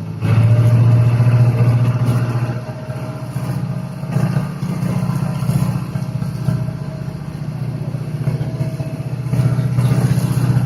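Sightseeing boat's engine running steadily with a low, even hum, growing louder just after the start.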